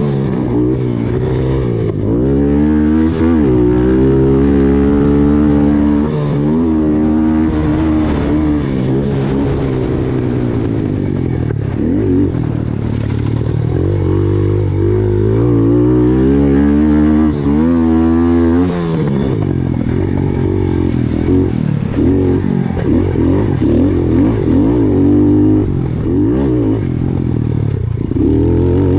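Pit bike engines revving hard, the pitch climbing and dropping again and again with throttle and gear changes. At times more than one engine can be heard at once.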